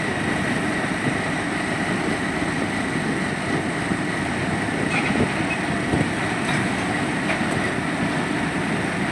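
Excavator running with a continuous engine rumble and a steady high whine, with a few sharp clanks about five to seven seconds in.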